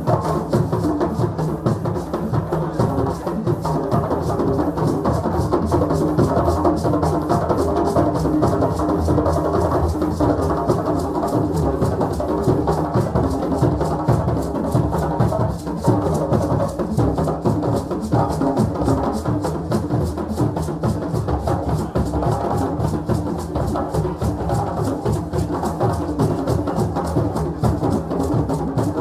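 Several African drums played together in a dense, fast rhythm, with deep bass drum tones under quicker, higher strokes, going on steadily.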